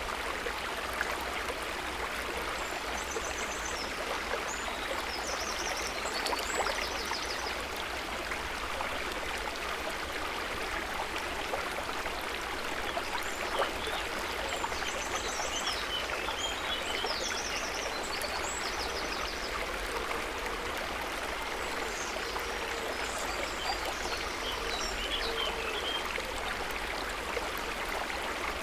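A stream of running water flowing and splashing at a steady level. Faint high chirping phrases come through over it three times.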